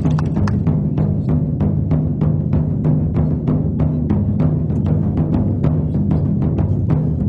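Music driven by large drums beaten in a fast, even rhythm, about three strokes a second, over a steady low drone.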